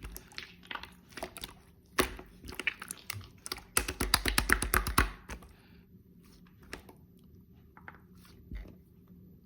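Clear slime being squeezed and pressed by hand, giving sticky clicks and small air-bubble pops. About four seconds in there is a quick run of dense clicking for a little over a second, then only scattered soft clicks.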